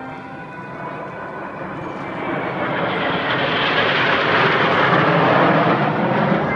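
Jet noise from Blue Impulse's Kawasaki T-4 jet trainers passing overhead. It swells from about two seconds in and is loudest near the end.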